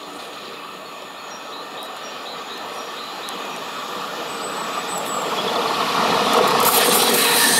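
SNCF BB 22200 electric locomotive hauling passenger coaches, approaching on a curve, its running and rail noise growing steadily louder. A high-pitched screech from the wheels on the curve comes in near the end as the locomotive passes close.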